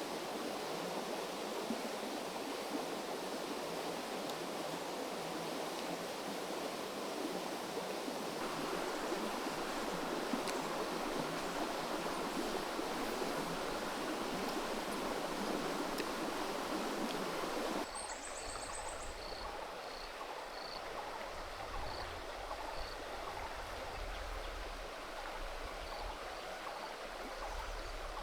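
Creek water flowing with a steady rush. About two-thirds of the way through the sound changes abruptly to a quieter stream rush with a low rumble, a short high trill and a faint high chirp repeating roughly once a second.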